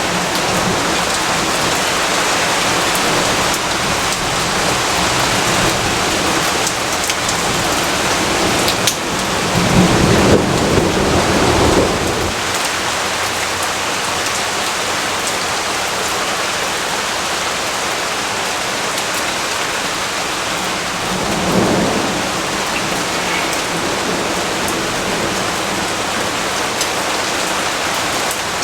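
Steady heavy rainfall with thunder rumbling: a louder low roll about nine seconds in that lasts some three seconds, and a shorter, weaker one about two-thirds of the way through.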